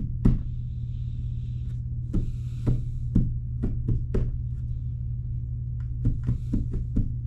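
Light knocks and taps, partly in a loose rhythm of about two a second, over a steady low hum.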